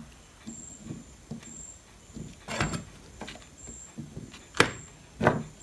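Scattered clicks and scrapes of tools and small parts being handled during electronics repair work, the loudest a few seconds in. A faint high chirp repeats about once a second behind them.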